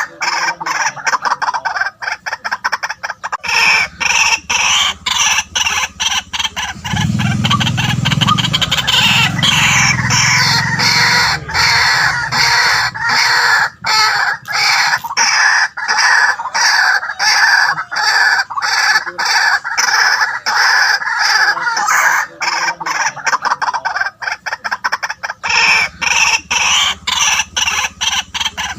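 White-breasted waterhen calling: an unbroken run of short, repeated notes, several a second.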